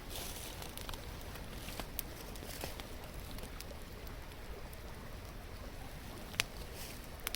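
Wood campfire crackling, with scattered sharp pops, the loudest about six seconds in, over the steady murmur of a nearby stream.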